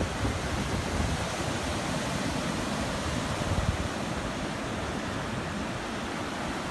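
Steady rush of ocean surf and wind, with wind rumbling against the microphone.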